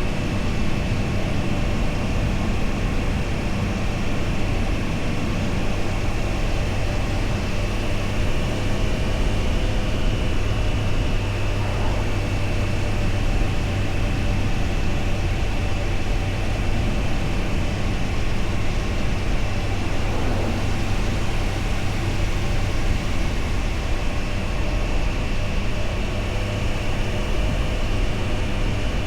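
Triumph Tiger Sport 660's three-cylinder engine running steadily under way, mixed with the rush of wind over the camera.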